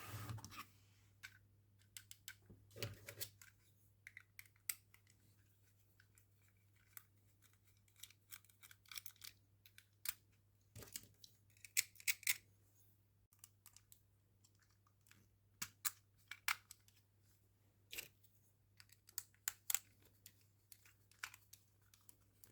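Hands handling and opening toy packaging: irregular soft clicks, taps and short crinkling, tearing rustles of plastic and card, close to the microphone.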